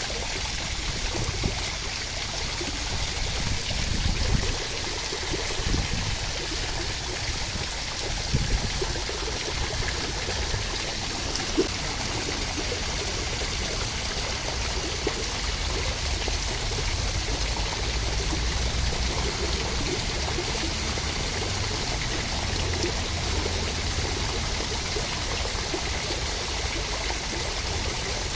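Steady rain falling, an even rushing hiss, with a few sharper taps in the first half.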